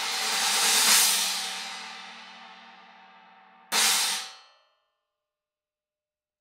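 TRX BRT Series 18-inch Lightning China cymbal ringing from a strike, its trashy wash swelling for about a second and then decaying. It is struck again near four seconds in, and that hit is cut off within about a second.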